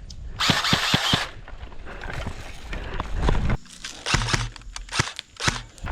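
Footsteps crunching and rustling through dry leaves and brush, with a few short sharp clicks.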